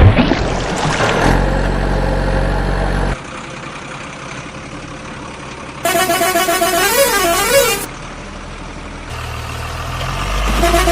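Vehicle sound effects: a low steady engine rumble for about three seconds, then a wavering, melodic musical horn playing a short tune about six seconds in, with the rumble returning and the horn tune starting again near the end.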